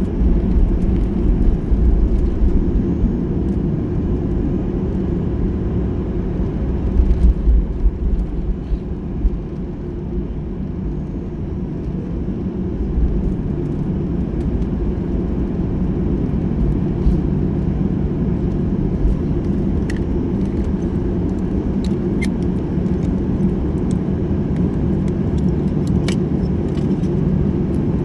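Cabin noise of a Boeing 737-800 taxiing: a steady low rumble of its CFM56 engines at taxi power and the rolling airframe, heavier and bumpier in the first ten seconds or so, with a few light cabin clicks and rattles later.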